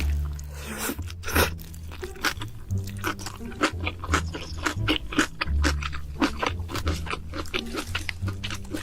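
Close-miked crunchy chewing and biting: a quick, irregular run of crisp crunches. Low background music plays underneath.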